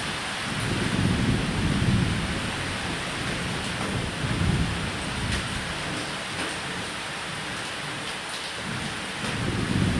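Steady heavy rain falling on a roof, with low rolling thunder rumbling up about a second in, again around four seconds in, and once more near the end.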